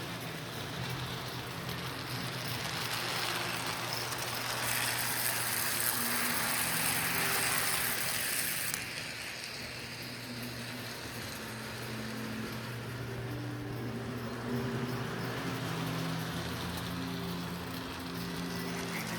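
Electric toy train running around its track: a steady motor hum with shifting low tones, and a bright hiss from about five to nine seconds in.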